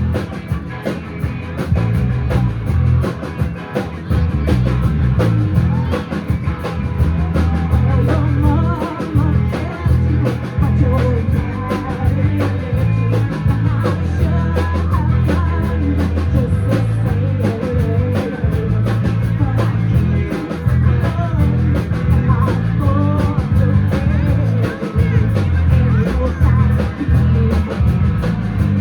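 A live rock band playing a song, with drum kit, bass and electric guitars.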